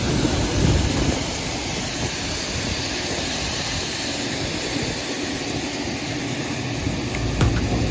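Heavy harvest machinery running steadily during corn combining: an even, dense engine and machine noise that does not change.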